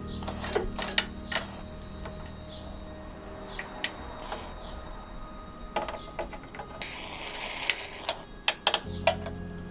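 Scattered sharp clicks and taps of hand tools working on car-body metal, with a quick cluster of taps near the end, over a steady low hum.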